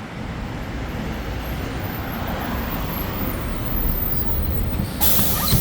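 A Hyundai Green City city bus's C6GB CNG engine runs with a steady low rumble. About five seconds in, a brighter hiss suddenly joins.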